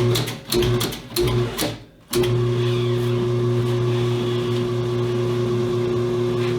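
Electric motor of a John Bean EHP System II tire changer turning the turntable: it is jogged in three short bursts, then from about two seconds in runs steadily with an even hum, working the tire bead onto the rim.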